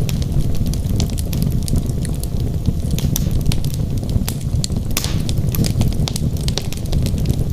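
Wood fire burning in a fireplace: a steady low rumble of the flames with frequent sharp crackles and pops, including a louder cluster of pops about five seconds in.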